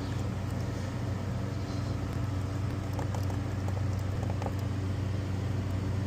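Rooftop HVAC unit running with a steady low hum, with a few faint light ticks about halfway through.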